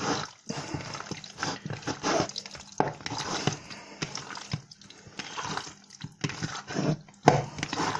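Raw chicken pieces being mixed through a wet paste marinade, making irregular wet squelches and small clicks.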